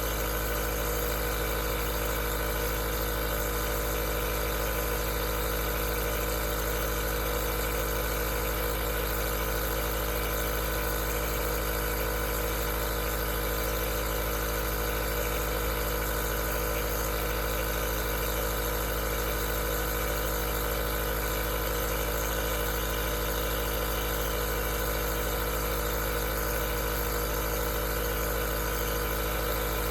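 Aerosol nebulizer's compressor running steadily: a continuous hum of several steady tones under a hiss of air, unchanging throughout.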